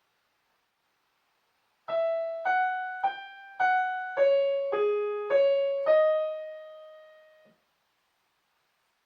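Piano playing a short single-note melody: about eight notes struck one at a time, the last one held and fading before it cuts off.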